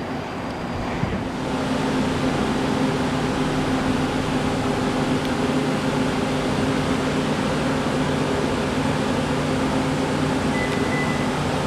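Steady machine drone: an even rushing noise with a low hum underneath, settling in about a second in and holding without change.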